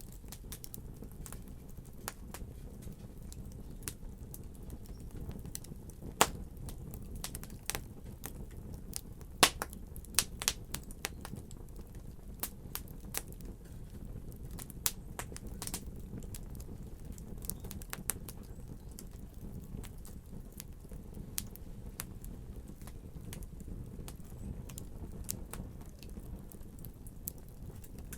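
Wood fire burning in a fireplace: a steady low rumble of flame with scattered sharp crackles and pops, a cluster of louder pops from about six to eleven seconds in.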